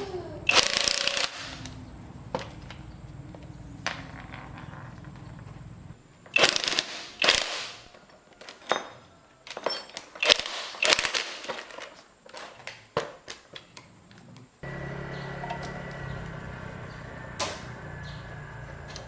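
Hand tools and metal parts being handled during work on an old tractor engine: irregular knocks, clicks and short scrapes, thickest in the middle, over a low steady hum that grows louder about three quarters of the way through.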